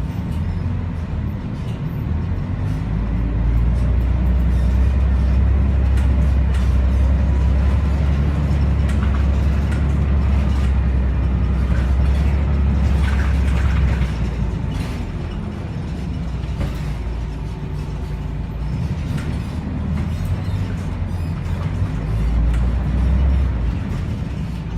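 Scania L113CRL bus's engine working under load with a deep drone, easing off about 14 seconds in and building again briefly near the end, amid rattles and clicks.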